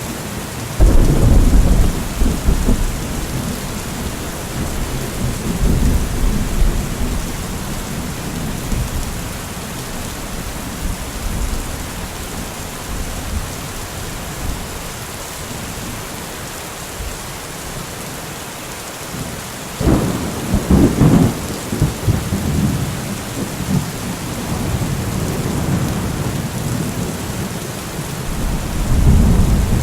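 Steady rain with rolling thunder: a sudden deep clap about a second in that rumbles away, a second sharp crack and rumble about twenty seconds in, and another rumble building near the end.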